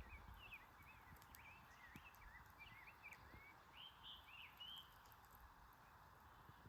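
Faint bird song, a quick run of rising and falling chirps that stops about five seconds in, over the steady rush of a small stream.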